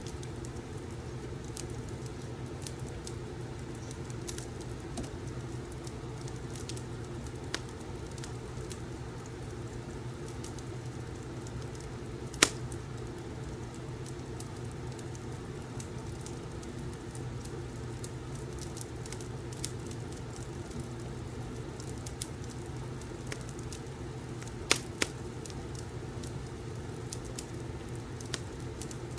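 Fireplace crackling: a steady low rumble and hiss with scattered sharp pops, the loudest about twelve seconds in and again near twenty-five seconds in.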